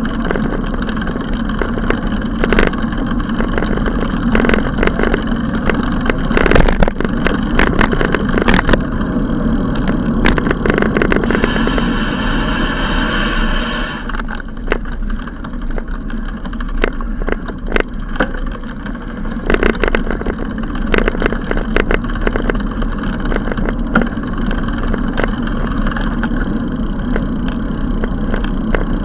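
Steady rumbling ride noise from a bicycle rolling along, with frequent sharp clicks and rattles. About twelve seconds in, a steady pitched tone sounds for roughly two seconds.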